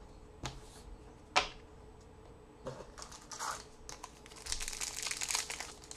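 A trading card pack's wrapper being torn open and crinkled, with one sharp click about a second and a half in and dense crinkling from about three seconds in.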